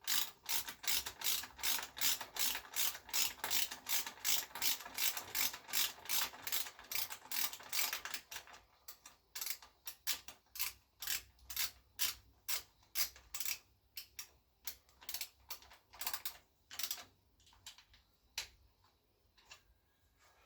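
Ratchet wrench clicking as a nut is turned: a quick, even run of about three to four clicks a second for the first eight seconds, then slower, irregular clicks that stop shortly before the end.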